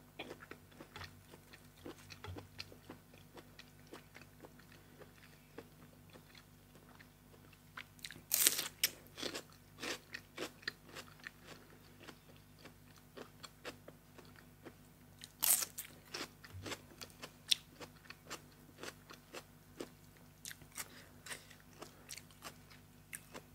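A person eating close to the microphone, biting and chewing crisp food such as raw vegetables and som tam. There is a steady run of small crunches, with louder bites about eight seconds in and again around fifteen seconds.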